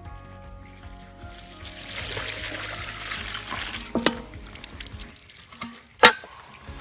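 Liquid pouring for about two seconds, then two sharp knocks, the second louder, over background music.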